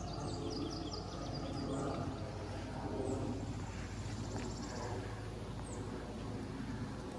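Small birds chirping outdoors: a run of quick falling chirps near the start and a buzzy high trill around the middle, over a steady low rumble.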